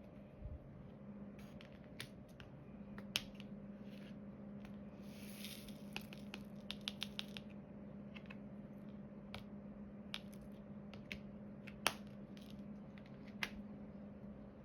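Small, scattered clicks and taps of diamond painting work: a drill pen picking up resin drills and pressing them onto the canvas, with a quick run of clicks about six seconds in and a short scraping hiss just before it. A steady low hum runs underneath.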